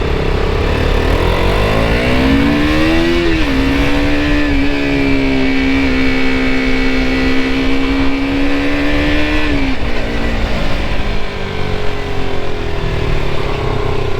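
KTM RC 200's single-cylinder four-stroke engine pulling under throttle while riding, pitch rising then dipping at a gear change about three seconds in. It holds a steady note until the throttle closes near ten seconds, then winds down slowly, over a steady low rumble of road and wind.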